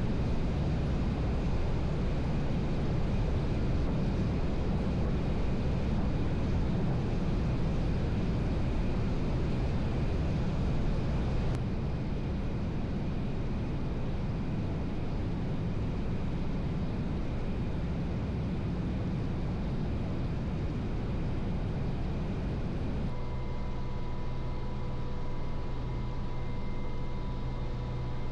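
Steady machine noise of a CH-149 Cormorant helicopter on the ground, running without its rotors turning. The noise shifts abruptly twice, and a steady whine joins it about two-thirds of the way through.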